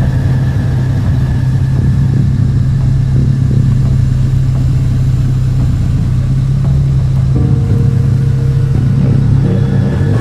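A car engine running steadily at low revs, a loud, even hum with no change in pitch.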